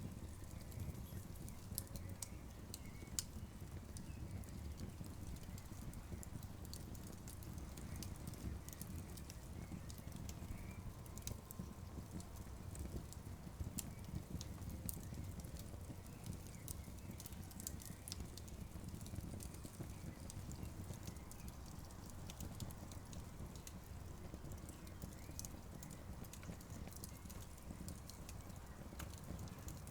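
Campfire crackling, with many sharp, irregular pops and snaps over a low, steady rumble.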